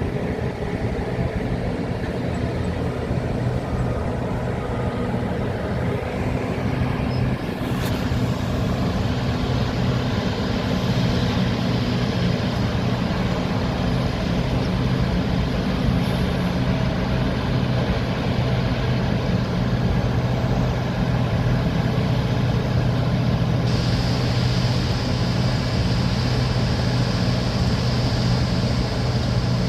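Large diesel mining excavators and haul trucks running with a steady, low engine drone while loading overburden. The sound turns brighter about two-thirds of the way through.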